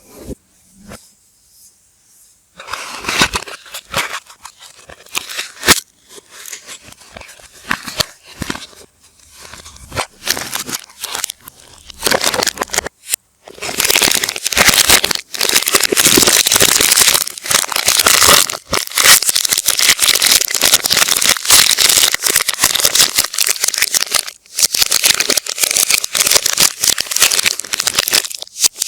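Soap wrappers being handled and unwrapped, crinkling and tearing, played in reverse. At first there are scattered crinkles, then dense, continuous crinkling from about halfway through.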